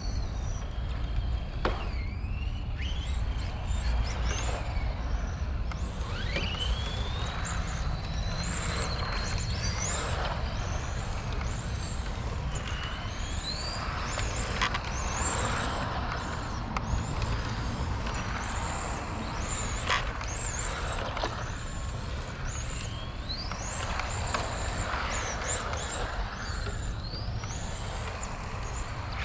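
Brushless motor of an XRAY FK05 RC car, a 13.5-turn brushless, giving an unusual high whine that rises in pitch again and again as the car accelerates.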